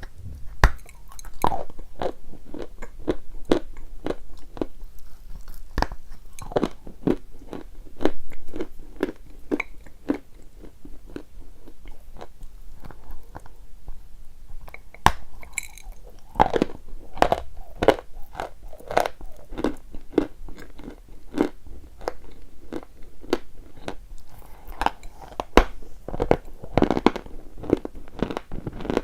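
A person biting and chewing crunchy chalk: a long run of irregular, crisp crunches that thin out briefly near the middle.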